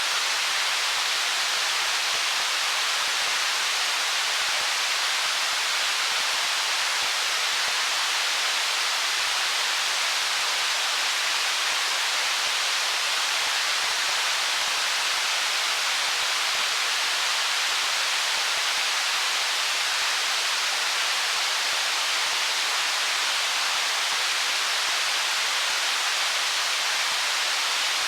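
Stream water running over stones, a steady, even rushing hiss that sits high, with little low rumble and no change.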